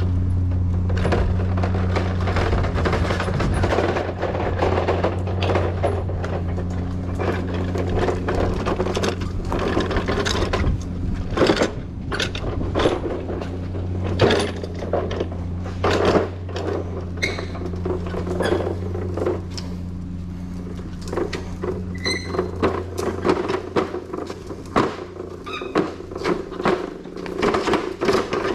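Junk and scrap pieces knocking and clanking as they are handled and moved about, some strikes ringing briefly like metal, over a steady low hum.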